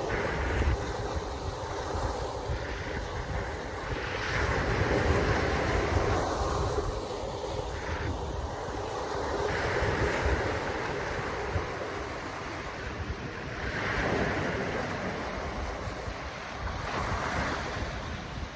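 Wind buffeting the microphone over water noise, a steady rushing hiss with a low rumble that swells and eases every few seconds.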